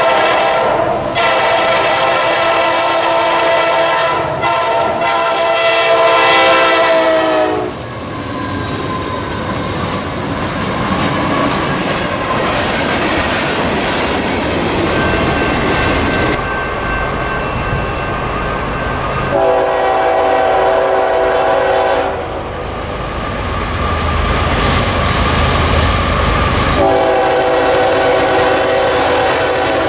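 Train horn sounding three times: a long blast that dips slightly in pitch as it ends, a shorter one about twenty seconds in, and another near the end. Between the blasts comes the steady rumble and rail clatter of a passing train.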